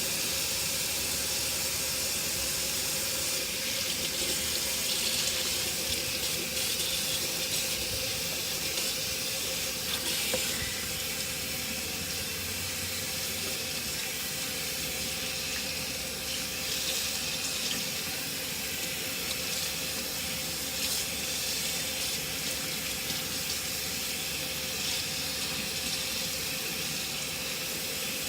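Running tap water splashing steadily as conditioner is rinsed out of hair, with a faint steady hum underneath.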